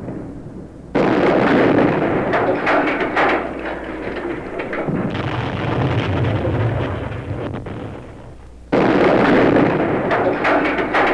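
Harsh noise music: a dense wall of crackling, blasting noise that cuts in abruptly about a second in, eases into a lower rumble through the middle, and slams back in near the end.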